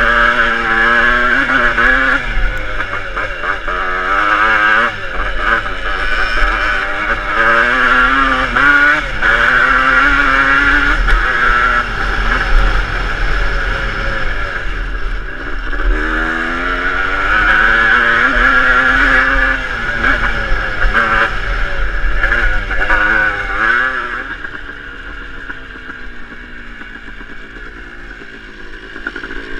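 Motocross dirt bike engine revving up and falling back again and again as the bike is ridden, with wind buffeting the microphone. The engine drops lower and quieter about three-quarters of the way through.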